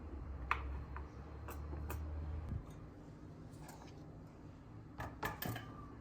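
A low steady hum that stops with a click after about two and a half seconds, with light clicks and taps: a few spaced about half a second apart early on, and a quick cluster near the end.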